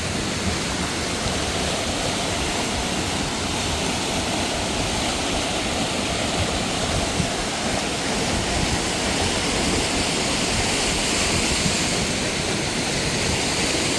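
Rushing mountain water, a steady even rush with no change throughout.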